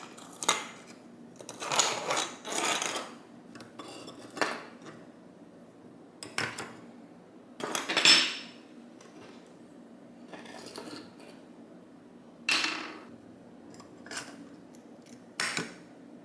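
Metal tools clinking and scraping against metal parts in a string of short, separate handling sounds, with a longer scrape about two seconds in and the loudest clank about eight seconds in.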